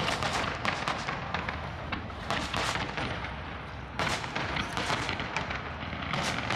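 Fireworks going off in quick succession: dense runs of bangs and crackles, with fresh volleys at the start, about two seconds in, about four seconds in and near the end.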